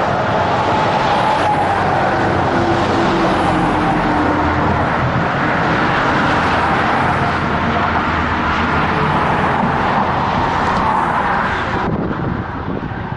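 Fast highway traffic passing close by: a steady rush of tyres and engines, with the pitched drone of passing vehicles sliding down in pitch. It eases off about a second before the end.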